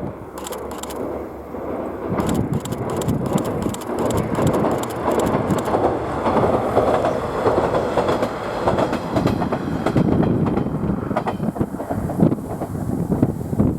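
A train passing, most likely a KiHa 110 series diesel railcar: a steady loud rumble with rapid clicks from the wheels over the rail joints, the clicks bunched in the first half and scattered later.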